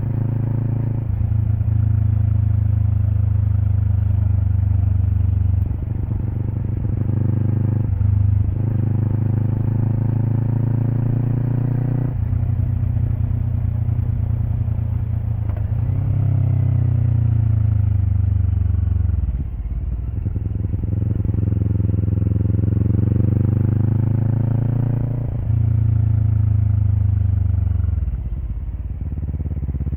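Kawasaki Eliminator SE parallel-twin through a BEAMS Power Header W exhaust, ridden on the road. The exhaust note climbs and falls with the throttle, with several short dips in between as the gears are changed.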